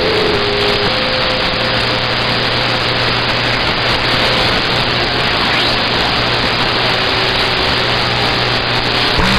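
CB radio static: a loud, steady hiss of band noise from the radio's speaker, with a faint low hum and a faint steady whistle of a carrier under it.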